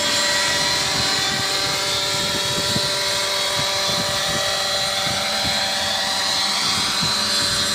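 Radio-controlled petrol helicopter's 23cc Zenoah two-stroke engine and rotor running steadily in flight, with gusts of wind rumbling on the microphone.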